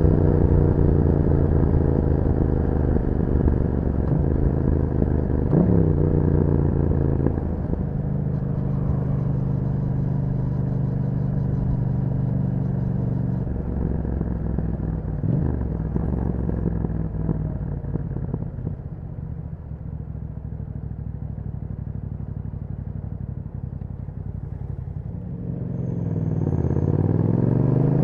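Yamaha MT-07 689 cc parallel-twin engine through an Akrapovic exhaust, heard while riding. The revs fall at first, change with gear shifts around 6 and 15 seconds, settle to low revs for a few seconds, then dip and climb again as the bike accelerates near the end.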